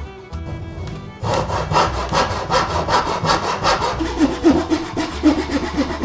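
Hand saw cutting wood in quick, even back-and-forth strokes, starting about a second in.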